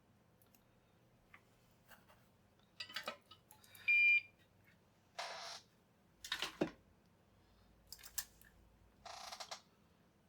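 A single short high-pitched electronic beep about four seconds in, the loudest sound. Around it are scattered clicks, knocks and brief rustling scrapes from handling small parts on the bench.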